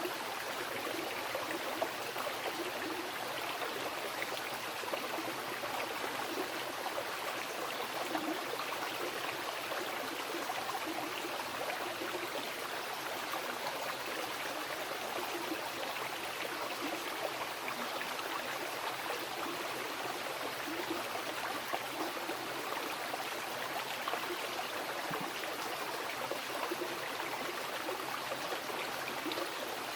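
Mountain river flowing over rocks: a steady rushing and babbling of water, with small splashes and gurgles throughout.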